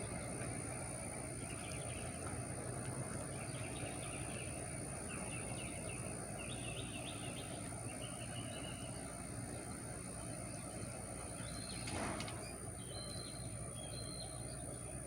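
Outdoor ambience: small birds chirping in short repeated bursts over a steady low rumble and a constant high-pitched whine. A brief louder rush of noise comes about twelve seconds in.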